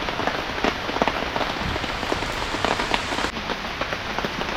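Heavy rain falling steadily, with many close drops ticking sharply against a surface.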